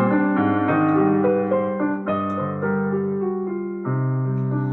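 Solo piano playing an accompaniment interlude: sustained chords with a moving bass line, no singing.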